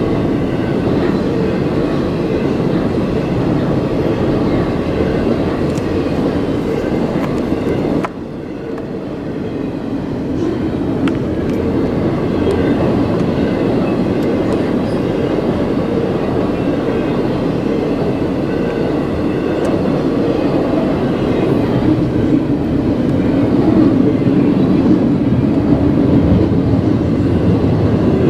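Freight train cars rolling past, a steady loud rumble of steel wheels on the rails. About eight seconds in the sound drops sharply, then builds back up.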